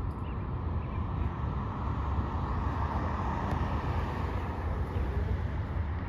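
Freight train of autorack cars rolling past: a steady low rumble with wheel-on-rail noise that swells and eases around the middle.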